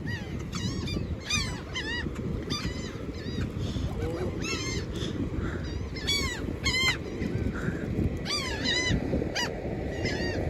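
A flock of birds calling over and over: short, arched calls, often two or three in quick succession, coming about once a second, over a steady low rumble of wind on the microphone.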